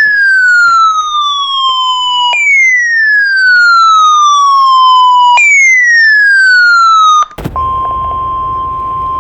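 A siren-like wail falls in pitch three times, each sweep lasting about three seconds. After a brief break near the end, it gives way to the steady single-pitch 1050 Hz Weather Radio warning alarm tone over radio hiss.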